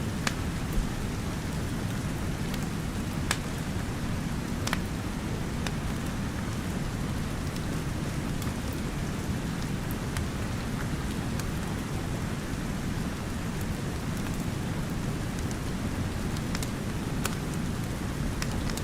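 Steady rain with a low rumble underneath, and scattered sharp pops and crackles from a wood fire.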